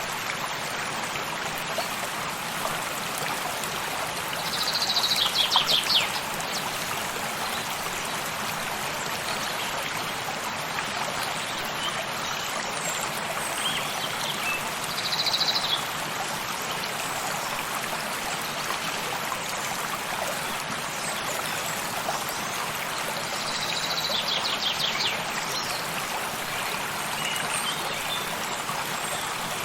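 Steady rushing of a flowing stream. Three times a bird calls over it, each call a short run of rapid notes falling slightly in pitch.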